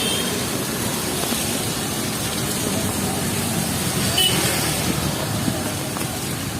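Street ambience in heavy rain: a steady hiss of rainfall mixed with passing traffic. Two brief high tones cut through, one at the start and one about four seconds in.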